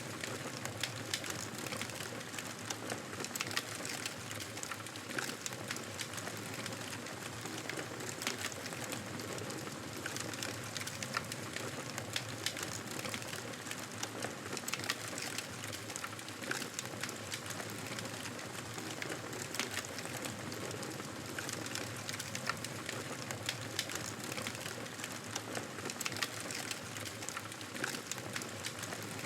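Campfire crackling steadily, with frequent small sharp pops and snaps over a soft hiss.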